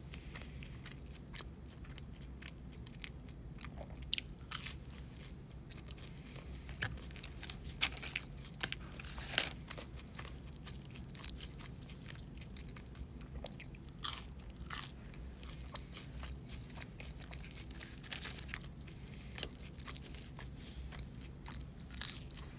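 Close-miked eating of McDonald's fast food: irregular crunchy bites and wet chewing clicks, over a faint steady low hum.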